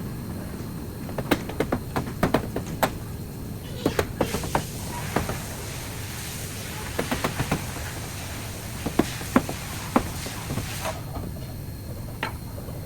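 Irregular sharp knocks and clicks, some in quick clusters of three or four, with a steady hiss from about four to eleven seconds in.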